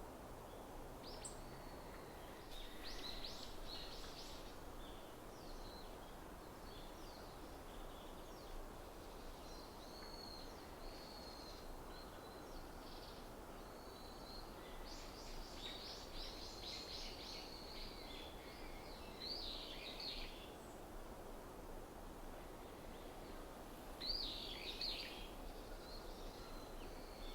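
Small wild songbirds chirping and calling in scattered short phrases over a steady low background rumble. The loudest calls come near the end.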